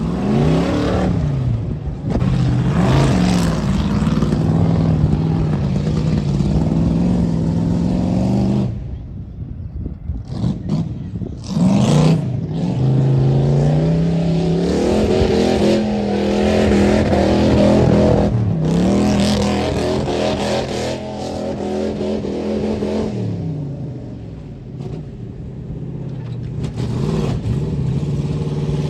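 Ford mud truck's engine revving hard and held at high revs, with its pitch sweeping up and down several times. It drops off briefly about nine seconds in, then revs up sharply again.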